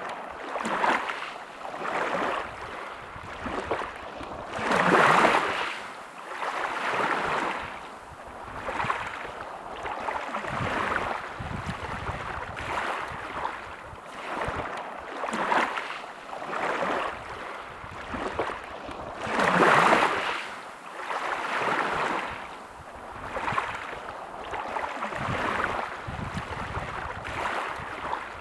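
Sea waves washing onto the shore, swelling and fading every second or two, with two bigger waves about five seconds in and about twenty seconds in.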